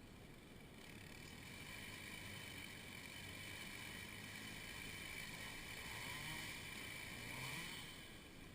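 Faint, steady engine drone, with brief rises and falls in pitch about six and seven and a half seconds in.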